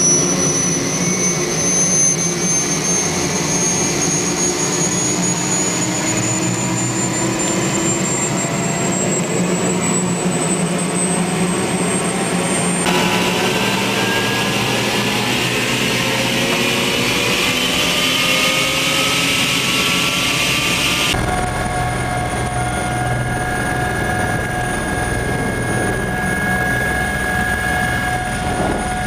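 Helicopter turbine and rotor running loudly. A high whine and lower engine tones rise slowly in pitch over the first dozen seconds. The sound changes abruptly about 13 and 21 seconds in, then runs steady.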